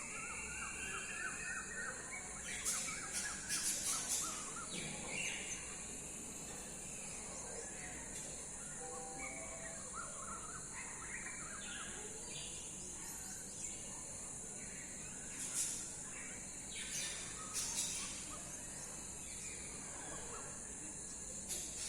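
Several birds chirping and calling at irregular intervals, with a few louder sharp calls, over a steady high-pitched hiss.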